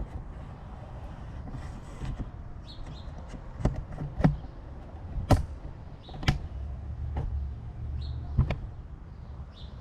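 Scattered sharp knocks and clunks, about five of them louder than the rest, over a low steady rumble.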